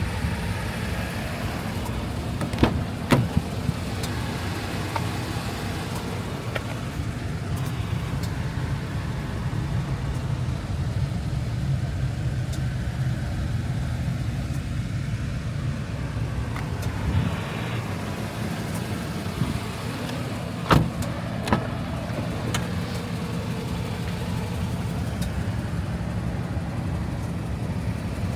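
A 1996 Chevrolet Impala SS's 5.7-litre LT1 V8 running steadily with a low drone, with a few short sharp clicks a few seconds in and again about three-quarters of the way through.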